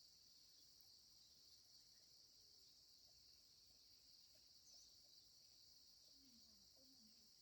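Faint, steady chorus of insects, an unbroken high-pitched drone.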